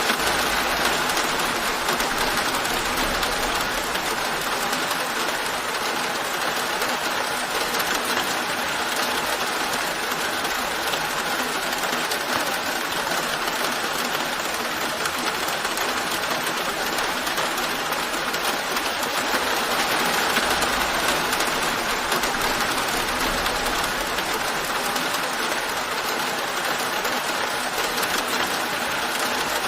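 Steady rain falling, an even hiss that swells slightly a couple of times.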